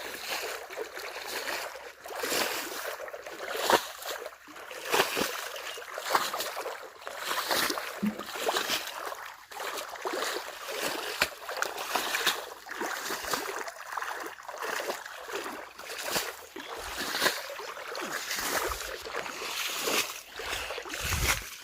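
Water splashing and sloshing as it is poured out to water plants, coming in irregular surges.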